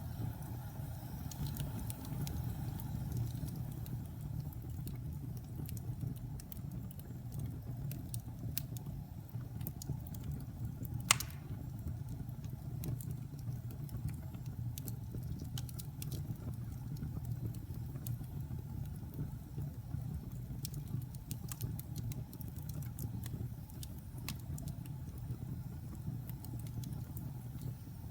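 Wood fire burning in a fireplace: a steady low roar with scattered small crackles, and one sharp pop about eleven seconds in.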